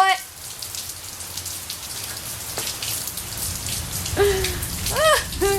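Steady rain falling, a continuous patter of drops.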